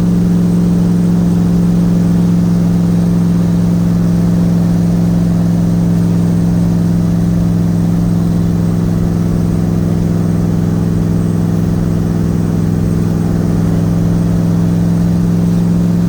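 Nissan VK56 twin-turbo V8 in a Z31 300ZX, heard from inside the car while cruising, a steady engine drone holding one pitch with no revving.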